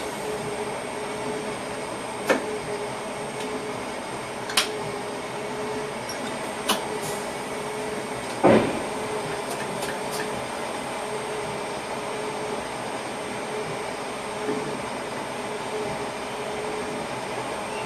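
Steady running noise inside a passenger train's driver's cab, with a constant hum and a few sharp knocks and rattles, the loudest about eight and a half seconds in.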